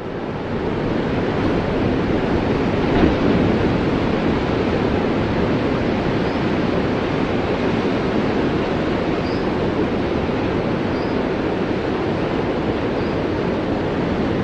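Steady rushing noise, fading in over the first second and then holding level, with a few faint high chirps later on.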